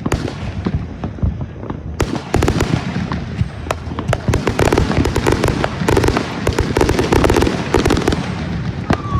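Consumer fireworks going off: scattered sharp bangs at first, then from about two seconds in a dense, rapid run of pops and crackles. A high whistling tone starts right at the end.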